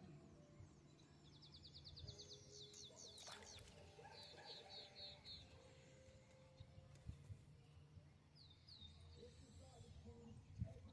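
Faint birdsong: a rapid high trill about a second in, then a run of five short repeated notes, and a few more chirps near the end.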